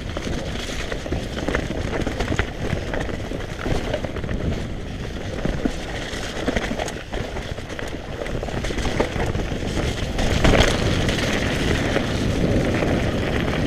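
Mountain bike being ridden over rough trail: wind rumbling on the camera microphone, with tyre noise and irregular rattling knocks from the bike, and a louder surge about ten seconds in.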